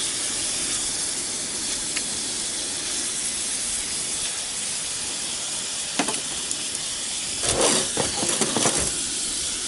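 Pork belly frying in a Nitori cast-iron skillet, sizzling with a steady hiss. A few sharp ticks sound about 2 and 6 seconds in, and a burst of louder, irregular handling noise comes near the end.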